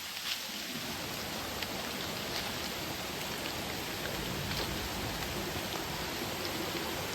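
Steady rain falling, with a few scattered drops ticking now and then.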